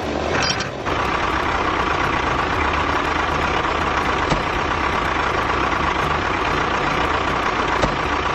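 A small engine running steadily, a low rumble under an even mid-pitched whine, with a couple of faint ticks.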